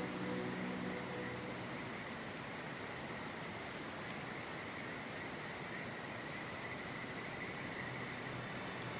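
Steady chorus of insects, a continuous high trill, over the constant rush of a river. A few soft held music notes fade out in the first second or so.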